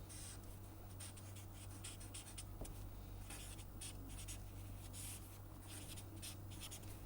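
Pen scratching in short, irregular strokes as a graph is sketched, over a faint steady low electrical hum.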